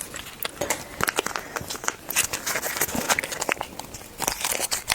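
A small packet of sweet corn kernels crinkling and rustling as it is handled, in a dense run of short crackles.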